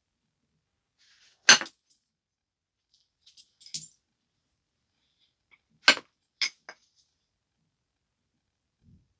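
Knapping a stone biface: sharp clinking strikes as flakes come off the edge. There is one loud hit about a second and a half in, small ticks in the middle, and two hits in quick succession around six seconds.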